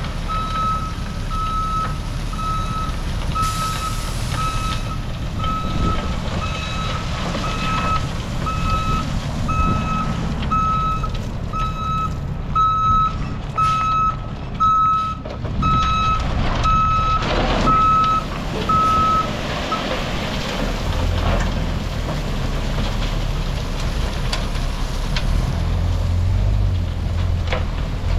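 Heavy equipment's backup alarm beeping steadily, a little over once a second, over a running diesel engine as the machine reverses. The beeping stops about two-thirds of the way through while the engine keeps running.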